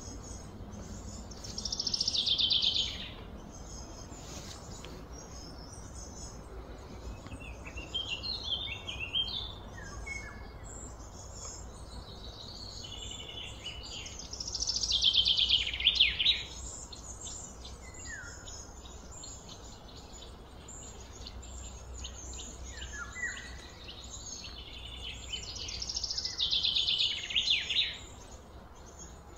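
A bird singing: three loud song phrases, each a fast trill falling in pitch and lasting about a second and a half, spaced roughly twelve seconds apart, with softer chirps in between, over a steady low outdoor rumble.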